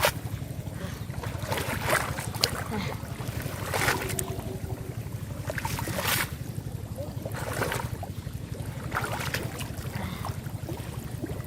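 Water and mud splashing in short bursts, several times, as hands work in the shallows of a river, over a steady low rumble.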